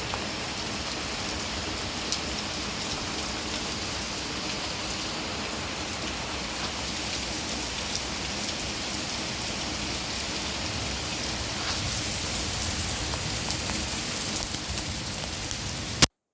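Steady rain falling, with scattered louder drops ticking now and then. It cuts off suddenly with a click near the end as the recording stops.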